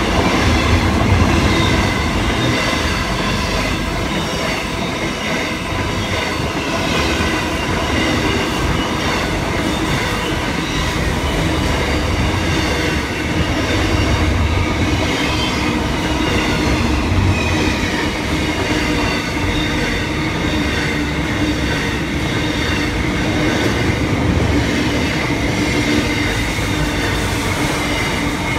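Long intermodal container freight train passing close by, its wagon wheels rumbling and clattering steadily on the rails, with a thin, steady high squeal from the wheels over the top.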